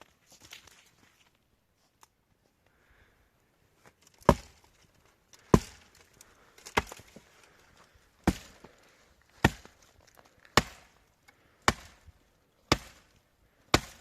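Steady chopping: nine sharp strikes, a little over a second apart, beginning about four seconds in.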